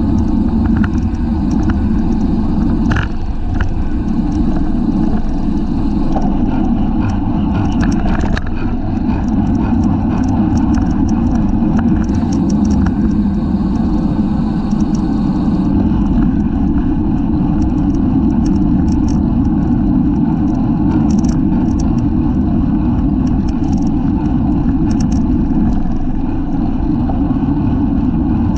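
Steady rush and rumble of wind over the microphone of a camera mounted on a racing bicycle moving at speed, with faint clicks and rattles scattered through it.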